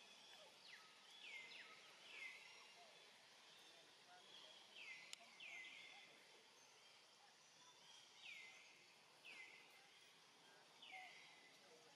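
Faint bird calls: a short falling note repeated every second or so, often two in quick succession, over quiet forest background, with one sharp tick about five seconds in.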